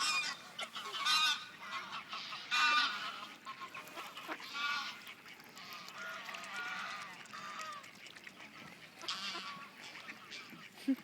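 A flock of waterfowl calling, short repeated calls coming every second or two, several overlapping at times.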